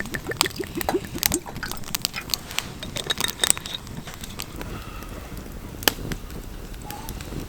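Wood campfire crackling, with irregular sharp pops over a low rumble. In the first second and a half there is a quick run of short, low creaking strokes.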